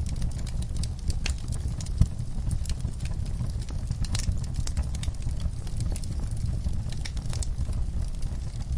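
Wood fire in an outdoor fireplace crackling, with scattered sharp pops over a steady low rumble; one louder pop about two seconds in.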